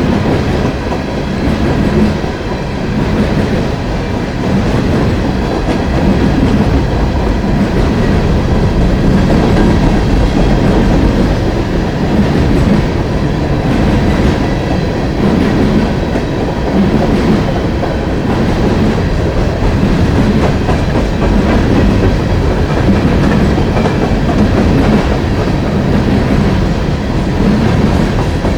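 Coal train's freight cars rolling past: a steady, loud rumble of steel wheels on the rails.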